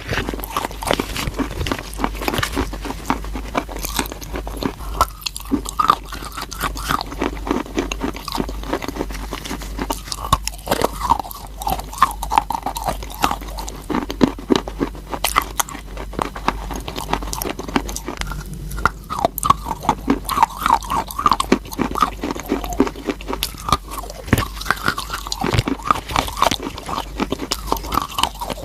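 A person biting and chewing crunchy chalk: a continuous run of sharp crunches and crackles, several a second.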